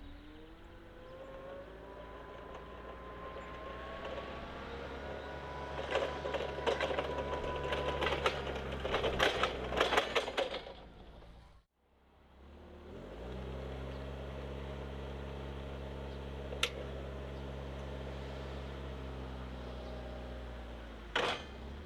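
Linde H20T forklift's Volkswagen LPG engine running, its pitch rising steadily over about ten seconds with a burst of metallic rattles and clanks, then running at a steady speed. A single click and a short clatter come later on.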